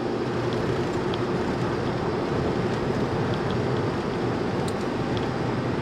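Steady road and engine noise inside a moving car's cabin, with a low hum and a few faint ticks.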